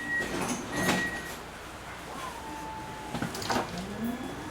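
Siemens Avenio tram's doors closing: an intermittent warning beep stops about a second in, with knocks as the doors shut. Near the end a rising electric whine from the traction motors begins as the tram pulls away.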